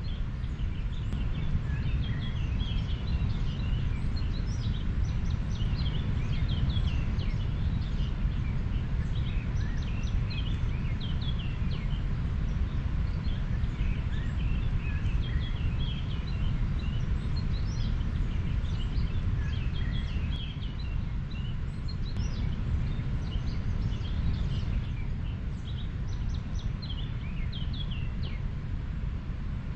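A river flowing with a steady, deep rush, with many birds chirping over it.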